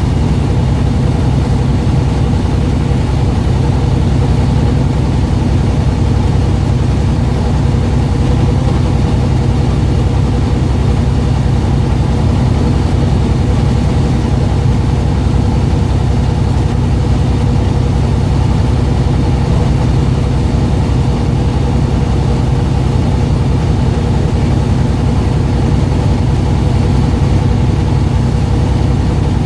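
A fishing boat's engine running steadily, a loud low drone that holds an even pitch throughout.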